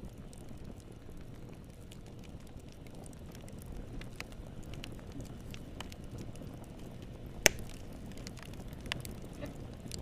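Fire burning in a fireplace and crackling: a steady low rumble of flames with scattered small snaps, and one loud pop about seven and a half seconds in.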